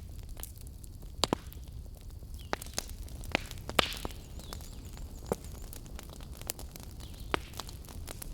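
Wood fire crackling: irregular sharp pops and snaps over a steady low rumble of flames. There is a quick double pop about a second in, and the loudest snap comes near the middle, trailing a brief hiss.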